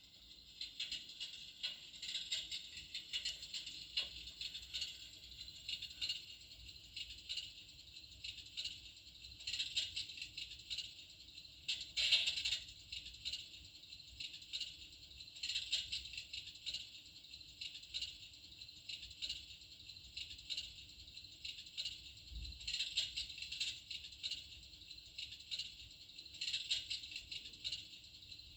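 Log-effect electric fireplace's simulated wood-fire crackle: a quiet, uneven hiss of small crackles that swells and fades every few seconds.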